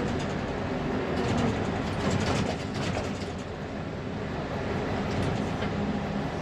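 Diesel engine of a 1999 Fermec TLK760 backhoe loader running steadily under load while the loader bucket works, heard from inside the cab, with a few short clanks and rattles partway through.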